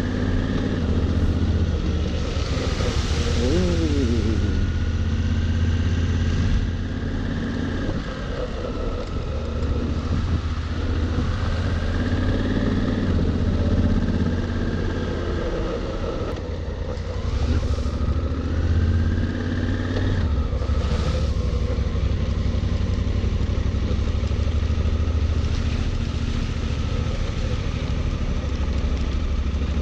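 Honda Africa Twin's 998 cc parallel-twin engine running under way, its note rising several times and dropping back as the rider works the throttle. A few short noisy rushes pass over it.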